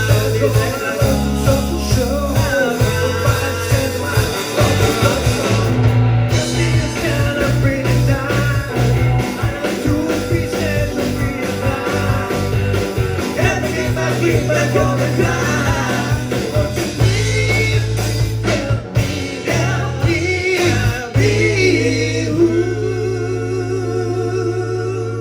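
Live rock band playing a song with bass, guitar and drums and a man singing; near the end the band holds one final chord.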